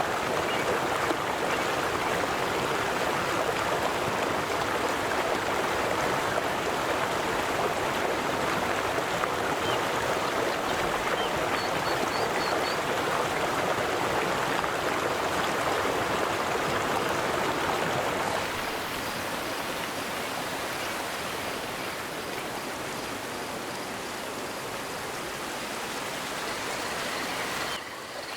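River water flowing in a steady rush. The sound becomes a little quieter and duller about two-thirds of the way through.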